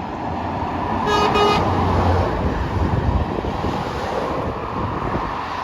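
Steady motorway traffic noise, with one short vehicle horn toot about a second in.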